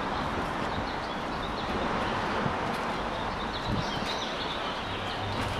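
Small birds chirping over a steady wash of outdoor background noise.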